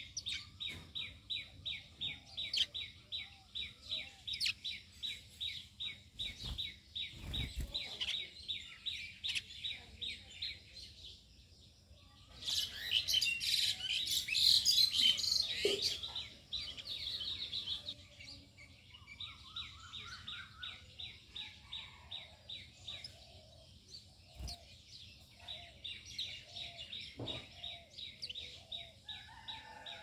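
Small birds chirping in quick runs of repeated notes, about four a second, with a louder burst of dense, higher twittering in the middle.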